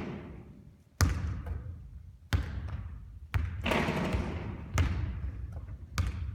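A basketball bouncing on a gym floor, five hard bounces about a second apart, each followed by an echoing decay.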